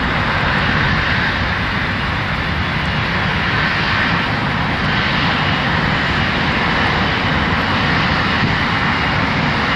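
Airbus A330-200 twin jet engines at high power on departure, a loud, steady, unchanging rumble and hiss.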